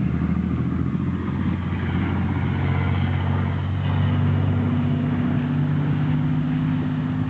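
A tractor engine running steadily at an even, low pitch, growing a little louder about four seconds in.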